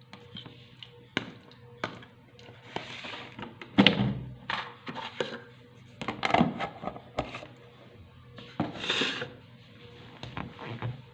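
Dishes and food packaging being handled on a table: a string of knocks and taps with a few short rustles.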